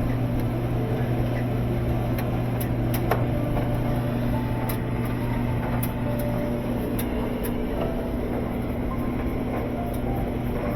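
Whirlpool-style top-loading washer running with its cabinet off: a steady motor hum with scattered light clicks. The basket isn't being driven properly, which the repairer takes for a stripped spin tube.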